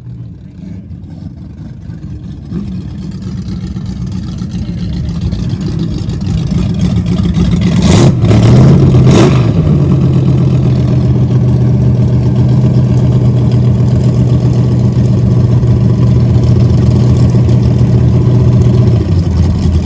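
V8 engine of a Fox-body Mustang, a 408 cubic-inch engine, running hard and growing steadily louder. About eight seconds in the pitch dips and picks up again, and after that the engine holds a steady drone that eases off just before the end.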